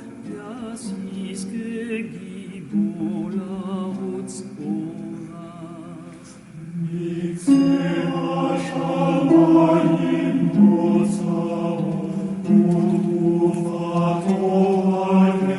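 Psalm chanted in Hebrew to a melody reconstructed from the te'amim cantillation accents. Long notes are held along one line, some with a wavering ornament. The chant grows fuller and louder about seven and a half seconds in, with occasional light, high percussion strikes.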